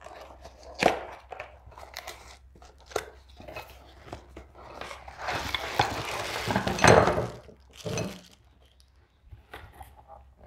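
Packaging of a boxed pressure washer wand extension being opened and handled: scattered knocks and clicks, with a longer stretch of crinkling and tearing about halfway through.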